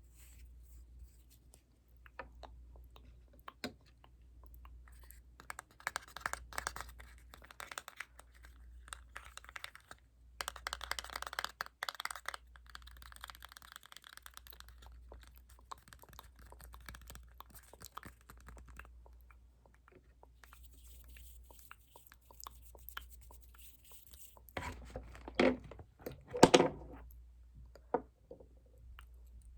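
Close-miked ASMR trigger sounds: stretches of scratchy, crinkling rustle with scattered sharp clicks, and a few louder clicks near the end.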